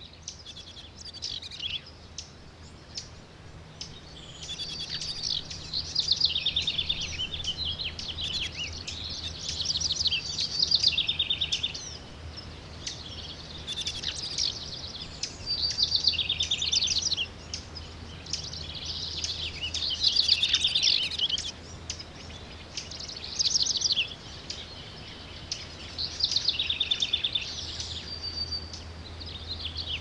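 A songbird singing repeated phrases of quick chirps and fast trills, a new phrase every three to four seconds.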